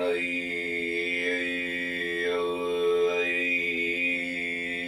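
Throat singing: one long held mid-range drone with a bright whistling overtone above it, which dips lower about two seconds in and rises back a second later.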